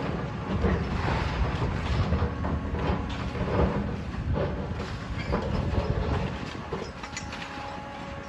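Heavy demolition machinery at work: a diesel engine running with a steady low rumble, overlaid by irregular clanks, knocks and crunches of metal and rubble.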